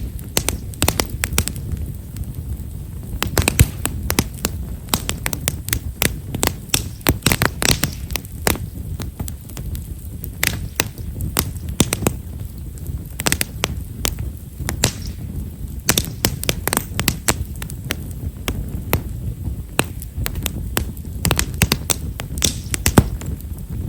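Campfire of Himeshara (Japanese stewartia) firewood crackling with many small, quick, irregular pops over a steady low rumble.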